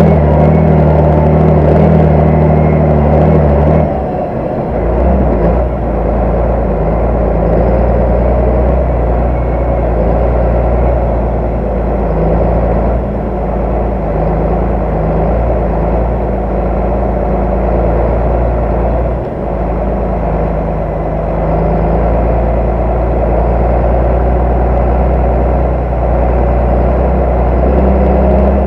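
Large tractor diesel engine running steadily under load. Its pitch drops and it gets a little quieter about four seconds in, then it runs on evenly.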